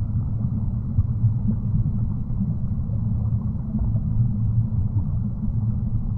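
Steady, muffled low rumble with no distinct events.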